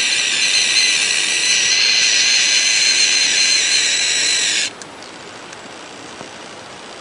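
A long, loud, high-pitched whistling squeal, held at one steady pitch, that cuts off suddenly a little under five seconds in, leaving a faint hiss.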